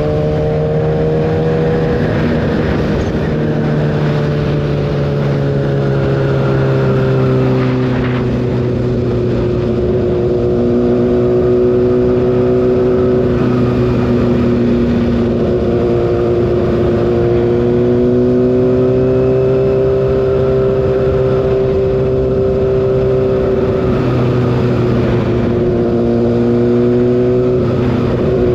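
Kawasaki ZX-6R's inline-four engine running at a steady highway pace, its note sliding slowly down and then back up, over a constant rush of noise.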